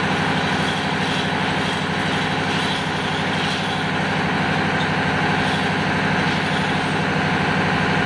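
Engine-room machinery running steadily: a loud, even diesel drone with a constant hum that does not change.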